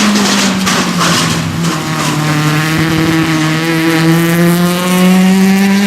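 Small hillclimb race car's engine at high revs, going through what looks like a shift about a second and a half in, then its note climbing steadily as it accelerates.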